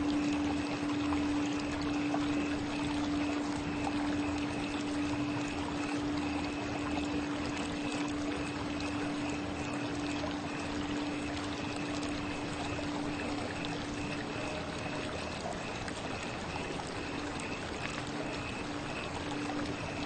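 Steady running water like a stream, with a sustained low tone of a Tibetan singing bowl ringing over it. The tone fades about two-thirds of the way through and comes back faintly, wavering, near the end.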